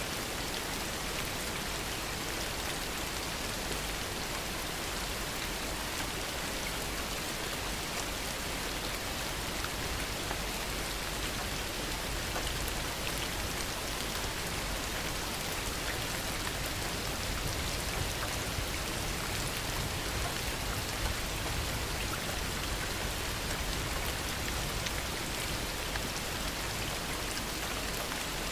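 Heavy rain falling steadily, with many small drop impacts pattering through it.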